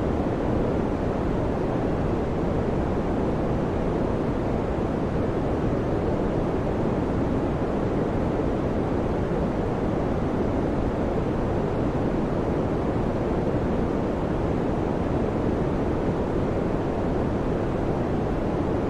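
Steady electric fan noise: an even, constant whoosh of moving air, weighted toward the low end, with no change in speed or level.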